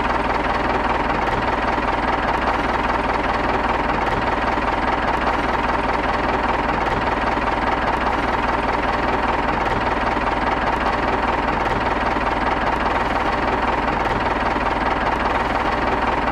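Tractor engine running steadily at an even speed, with a fast, even knocking chug and a steady whine above it.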